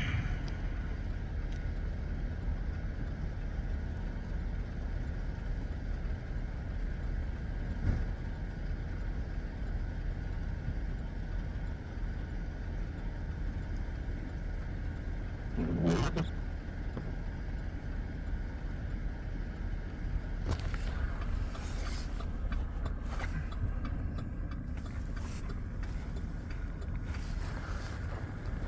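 Steady low rumble of an idling vehicle engine, with a short louder sound about halfway through and a few brief clicks near the end.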